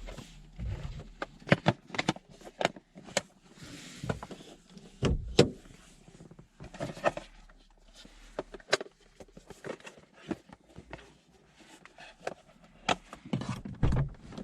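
Hands at work on a car's headlight during a bulb replacement: irregular sharp clicks, knocks and rattles of plastic and metal parts being handled, with a few louder knocks about five seconds in and near the end.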